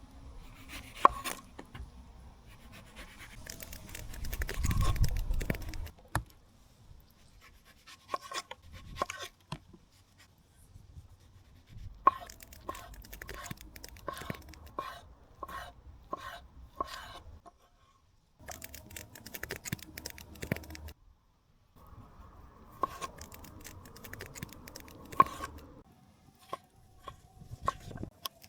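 Fruit being cut and handled for a plate: sharp knife clicks and taps, then a run of evenly spaced chops about two a second. There is a louder low rumble a few seconds in.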